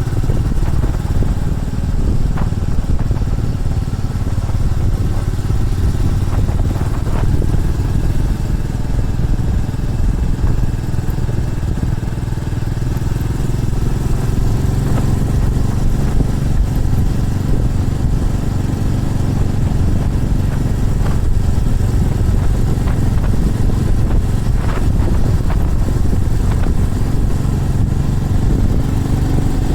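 Motorcycle engine running steadily under way, with a dense low rumble; the engine note rises slowly through the second half.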